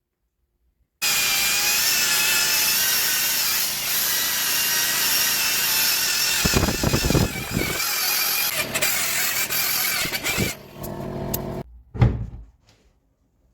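Handheld electric machine polisher switched on and running steadily with a whine for about ten seconds as it works the paint, then switched off. A single sharp thump follows near the end.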